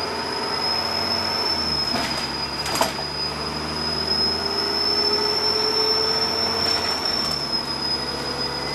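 Turbocharger whistle from a Dennis Trident double-decker bus: a loud, high, steady whistle over the diesel engine running underneath. There are a couple of sharp clicks about two and three seconds in.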